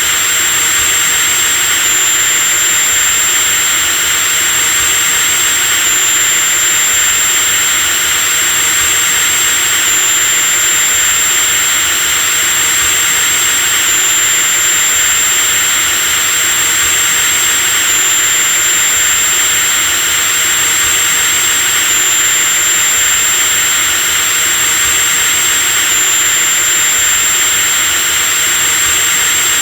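Electric drill running continuously at full speed with no load changes: a steady high-pitched whine over a dense motor hiss.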